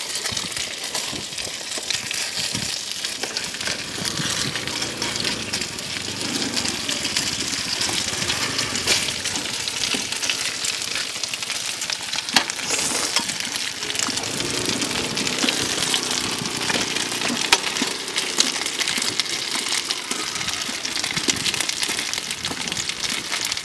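Steady sizzling hiss of food frying on a hot oiled griddle, with scattered small crackles and clicks throughout.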